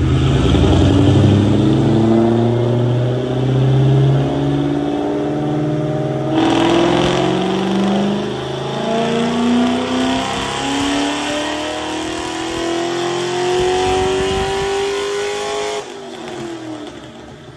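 Ford Mustang's engine making a wide-open pull on a chassis dynamometer, the revs climbing steadily with a break about six seconds in. Near the end the throttle is lifted and the revs fall away.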